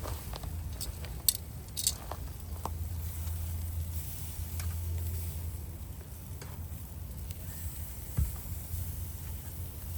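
Shashlik meat sizzling on the grill, with scattered sharp crackles, two of them louder about a second and two seconds in, over a steady low rumble.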